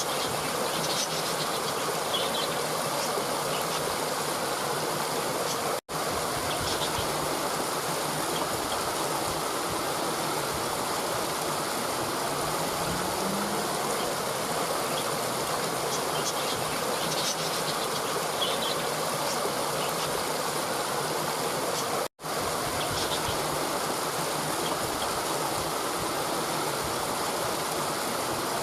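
Steady rushing of flowing stream water, with faint high chirps now and then. The sound cuts out for an instant twice.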